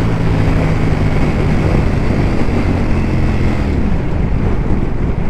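Ducati V4 superbike engine running on the move under heavy wind noise on the microphone. The engine note drops about three seconds in as the bike slows.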